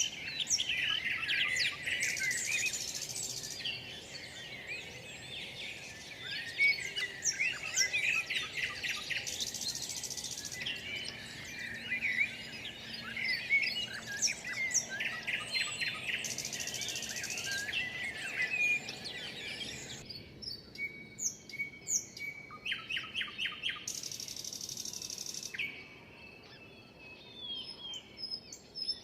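A chorus of many songbirds chirping and singing over one another. About twenty seconds in the dense chorus abruptly gives way to a quieter background with sparser, separate calls, including a short rapid trill.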